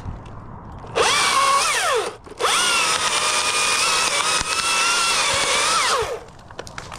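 Chainsaw throttled up twice: a short burst about a second in, then a longer run of about four seconds that rises in pitch, holds steady at full throttle and winds back down to idle.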